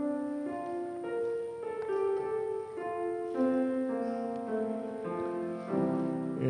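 A keyboard instrument playing a slow melody of held notes, with fuller chords near the end. It is the introduction to a sung liturgical response.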